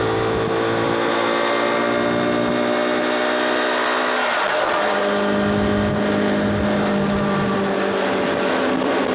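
KTM RC 390's single-cylinder engine running at road speed over steady wind rush, its note easing slightly lower; about four seconds in the note breaks and settles at a lower steady pitch, then climbs a little near the end.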